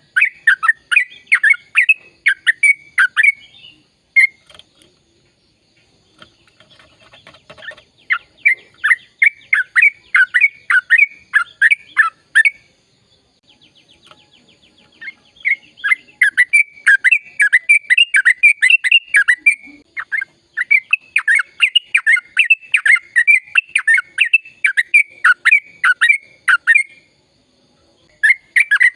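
Sooty-headed bulbul (trucukan) singing in long, fast runs of sharp, downward-sliding notes, about three a second. The runs come in several bouts with short pauses between them.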